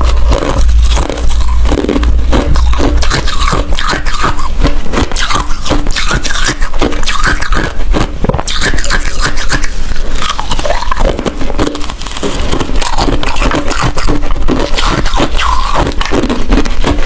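Ice being bitten and chewed close to the microphone: a steady, dense run of sharp, irregular crunches and cracks.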